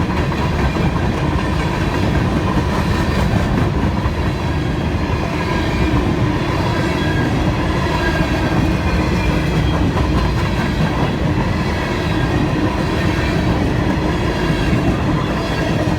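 Freight train of covered hopper cars rolling past, with a steady rumble and clatter of steel wheels over the rail joints.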